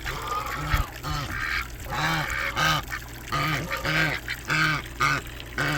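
Domestic ducks quacking over and over, short calls about two a second.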